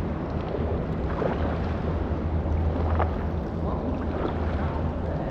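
Inflatable kayak paddling on a river: a few light paddle splashes over a steady low rumble of wind on the microphone.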